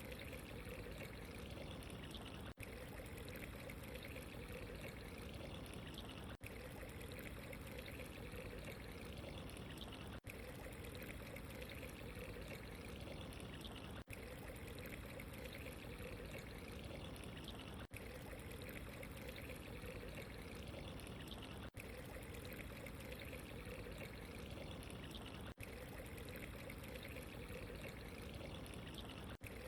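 Steady trickling, running water, a short recording looped over and over, with a momentary dropout at each seam about every four seconds.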